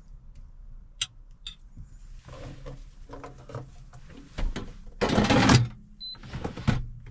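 Kitchenware being handled while food is plated: two sharp clicks, then irregular clatter and scraping knocks, with one louder, noisy scrape or rustle lasting about half a second around five seconds in.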